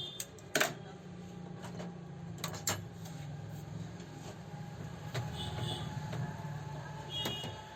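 A few sharp clicks and knocks, like metal parts being handled, over a steady low hum.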